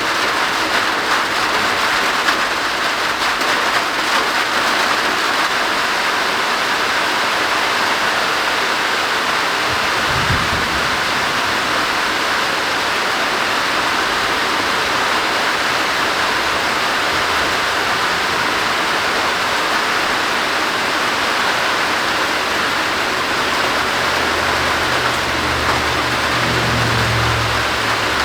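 Heavy rain pouring steadily in a windless downpour. A brief low rumble comes about ten seconds in, and a longer low rumble builds near the end.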